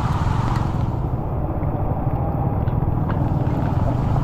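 Motorcycle riding through a heavy rainstorm and standing water: steady wind rumble on the microphone over the running engine and water spray. The higher hiss thins out about a second in.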